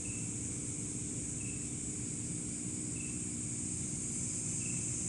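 Steady high-pitched chorus of insects such as crickets, with a short high chirp repeating about every second and a half.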